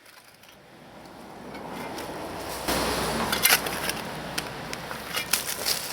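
Soil and stones being scraped and crunched as earth is worked, with a few sharp knocks of stone.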